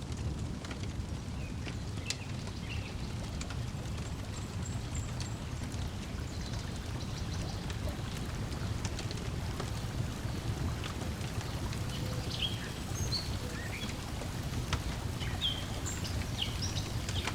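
Lakeside ambience: a steady low wash of lapping water and breeze, with a wood fire crackling in scattered small pops and birds chirping briefly now and then.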